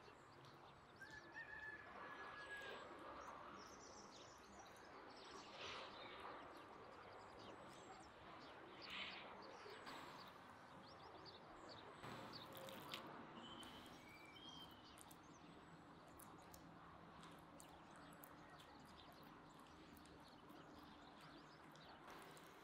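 Quiet open-air room tone with a few faint, short bird chirps and scattered soft clicks and rustles of hands rolling blanched cabbage leaves around minced meat.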